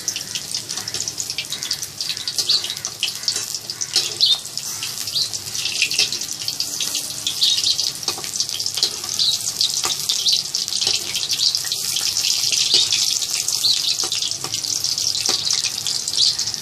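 Shrimp pakoras deep-frying in hot mustard oil in a kadhai on a low flame: a steady sizzle full of small pops.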